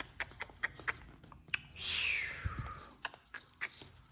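Sheet of paper being handled and folded, crackling and crinkling with a run of sharp snaps as it is creased, and a longer rustle a couple of seconds in.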